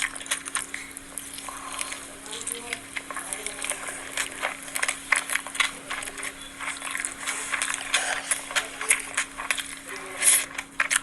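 Close-miked eating sounds: wet chewing, smacking and crackly mouth clicks at an irregular pace, with a louder crunchy or slurping burst near the end. A faint steady hum sits underneath.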